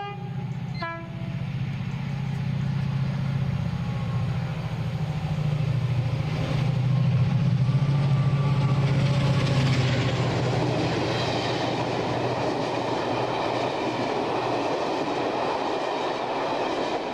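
A diesel locomotive horn sounds a short note about a second in, then a diesel locomotive runs with a steady low engine drone that swells in loudness, joined by a rising rushing noise from about ten seconds in.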